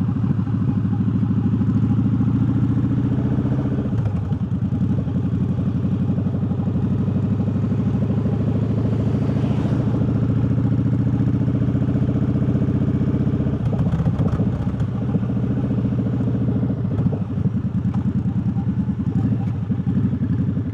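Triumph Bobber's 1200 cc parallel-twin engine running at a steady, low engine speed, its note shifting slightly about four seconds in and again around fourteen seconds.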